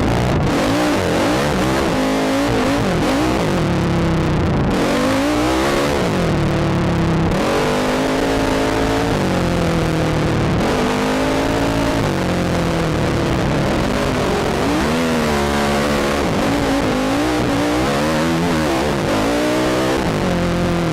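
Sport ATV engine revving up and down over and over, the pitch rising and falling every second or two, with a steady rush of noise underneath.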